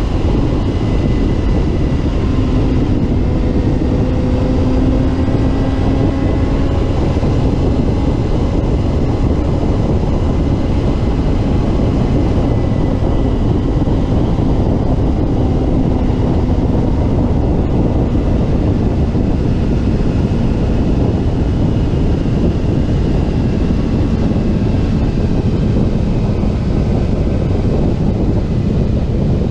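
Middleweight road-racing motorcycle engine running under way, its pitch slowly rising and falling, heard over heavy wind rush on the microphone.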